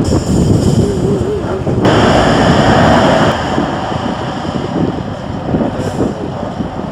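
Heavy off-road trial truck's diesel engine working hard, a loud low rumble that swells into a louder, higher-pitched noise for about a second and a half near the middle, then eases off.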